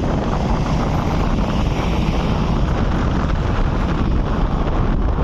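Steady low rumble of wind buffeting the microphone, with heavy vehicle engine noise underneath.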